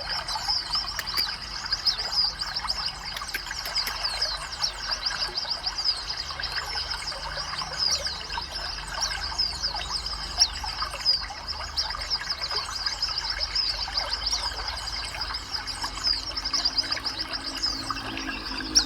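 Songbirds chirping and twittering in a rapid, unbroken stream of short, high notes.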